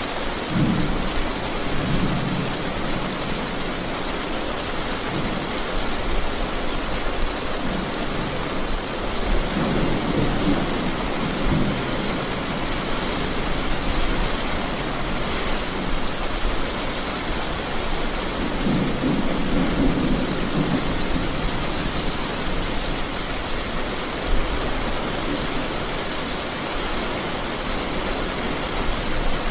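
Steady rain falling in a thunderstorm, with low rolls of thunder rumbling three times, about ten seconds apart. A single sharp tap stands out briefly near the end.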